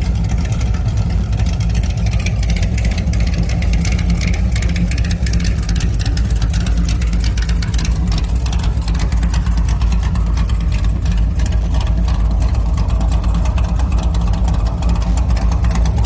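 Engine of a 1927 Ford T-Bucket hot rod idling steadily, with a deep exhaust note.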